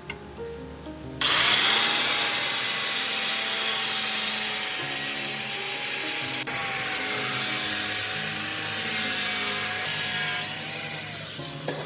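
A power tool starts about a second in and grinds steadily, a dense hiss with a slightly wavering whine, then cuts off just before the end.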